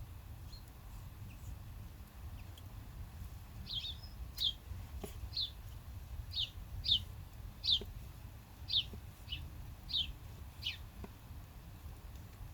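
A bird calling: about ten short, high, down-slurred chirps at uneven intervals, starting a few seconds in, over a steady low rumble.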